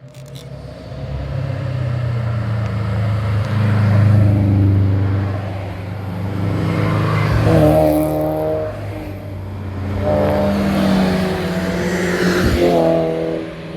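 Several performance cars passing one after another on a winding mountain road, their engines revving up and down through the bends, loudest about four, eight and twelve seconds in.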